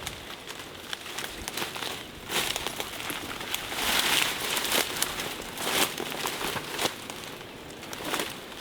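Dense brush and branches scraping and crackling against clothing and gear as someone pushes through, with irregular rustling surges and sharp twig snaps.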